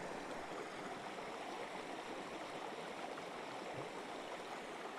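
Creek water flowing and burbling over rocks, a steady rushing.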